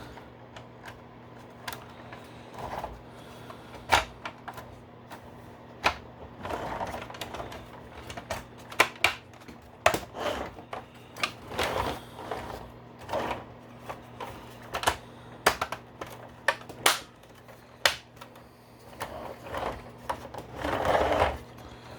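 Hard plastic parts of a G.I. Joe Bugg toy vehicle being pushed together by hand, with irregular sharp clicks and snaps as the tabs seat into their holes, between stretches of plastic rubbing and handling.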